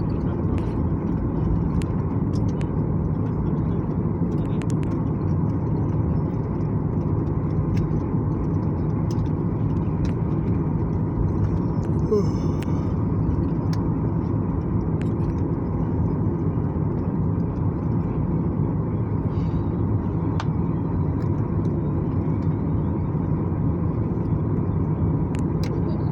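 Steady cabin drone of a Boeing 737-800 airliner in flight, its CFM56 jet engines and the airflow heard from inside the cabin, with a few faint clicks.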